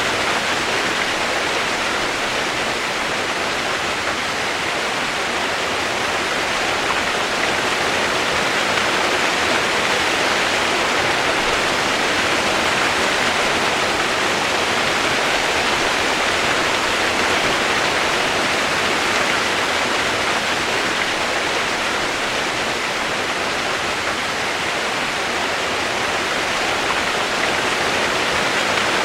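Steady, even rain hiss with no separate drops or other events, used as relaxing white noise.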